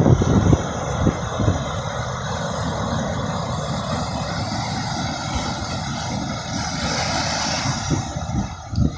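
Steady wash of ocean surf, with wind buffeting the microphone in the first half second and a brighter hiss of a wave about seven seconds in.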